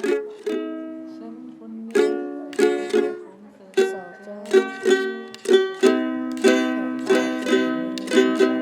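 Ukulele strumming chords in an instrumental passage, irregular strums with ringing notes between them and short gaps.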